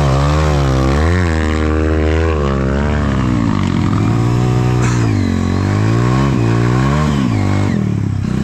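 Dirt bike engine revving hard, its pitch rising and falling again and again, under load as the rider works up a muddy trail climb.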